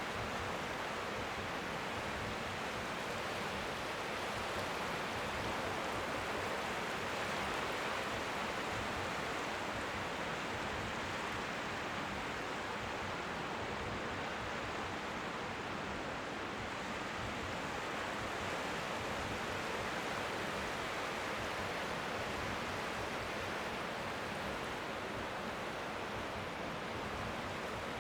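Strong wind by the sea, a steady even rush like white noise, with faint waves lapping at the shore underneath.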